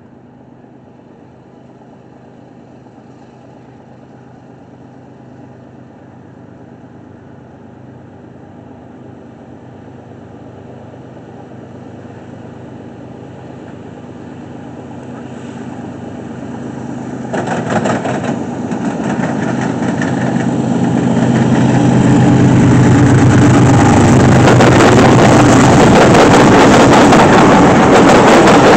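Two GE diesel freight locomotives approach and pass close by, their engine drone growing steadily louder over about twenty seconds. After that comes the loud, dense rattle of wheels and cars as the train goes by.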